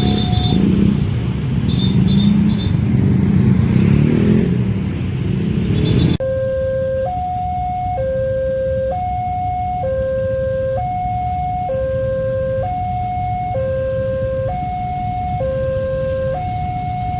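Railway level-crossing warning alarm sounding a two-tone signal that switches between a lower and a higher pitch about once a second. For the first six seconds it is partly covered by the loud rumble of a passing train; after a sudden cut it is heard alone.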